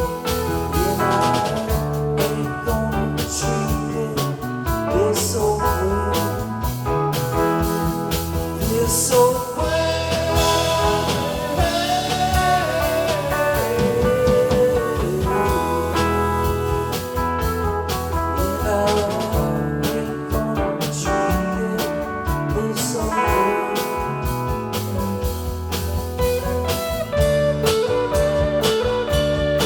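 A rock band playing: guitars over a drum kit, with a lead line that bends in pitch around the middle.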